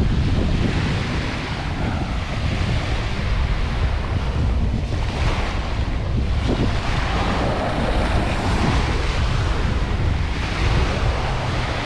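Sea waves washing onto a beach, with wind buffeting the microphone in a low rumble.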